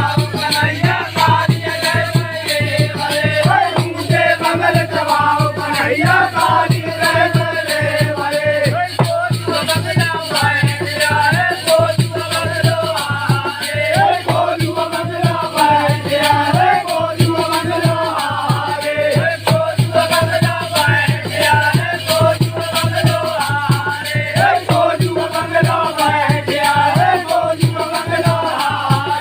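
Phag, a Hindi folk song, sung by an old man in a strong voice, over fast, steady percussion.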